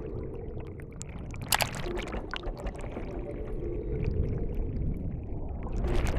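Underwater rumble of moving water and bubbles, with a faint steady hum underneath, a sharp short burst about a second and a half in and a louder swell near the end.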